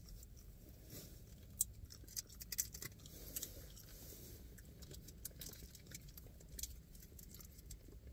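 People chewing Tootsie Roll candy, with small sticky mouth clicks and smacks, busiest between about one and a half and three and a half seconds in, over a low steady hum.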